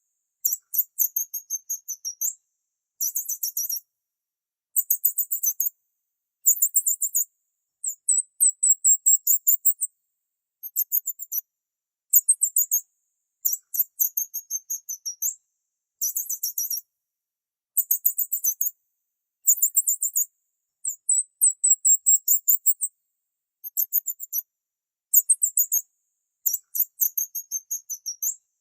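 A small bird singing very high-pitched, rapid chirping trills in phrases about a second long, repeated every second or two with brief pauses between them.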